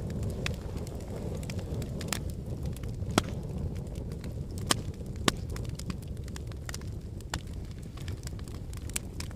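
Wood fire burning in a fireplace: a steady low rumble of flames with frequent sharp crackles and pops from the burning logs, a few louder snaps about three and five seconds in.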